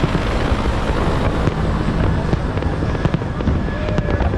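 Fireworks show: a continuous low rumble of overlapping aerial shell bursts, with sharp cracks and bangs throughout.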